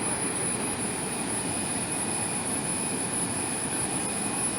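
Athirappilly waterfall roaring: a steady, even rush of falling water and spray that does not change.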